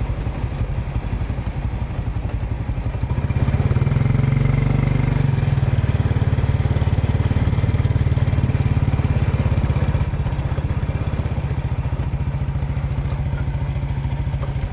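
Motorcycle engine idling close by with a steady low pulsing; it gets louder about three and a half seconds in and eases back around ten seconds.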